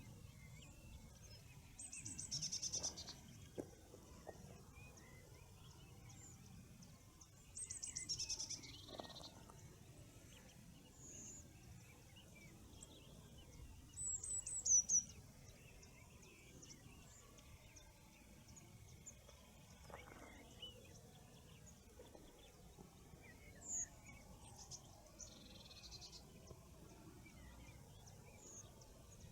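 Wild songbirds singing in the morning: short, high, rapid trilled phrases a few seconds apart, with sharper chirps about halfway through, over a faint steady outdoor hiss.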